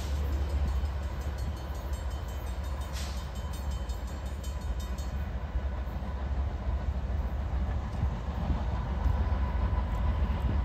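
A freight train's BNSF diesel locomotives and cars running along the track as the train draws away, a steady low rumble.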